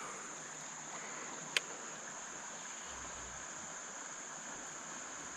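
Running creek water with a steady high insect drone, and one sharp click about a second and a half in.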